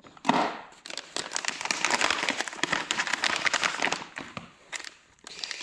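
Plastic packaging crinkling and crackling as it is handled and opened: a short rustle just after the start, then a stretch of dense crackling that eases off shortly before the end.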